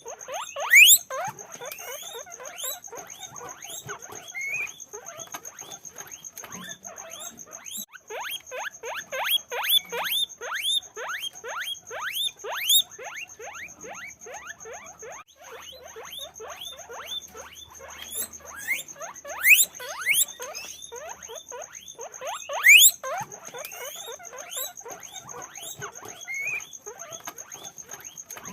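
Many guinea pigs squeaking together in a dense, continuous chorus of short, overlapping squeaks, with a few louder calls standing out. A steady high thin whine runs underneath.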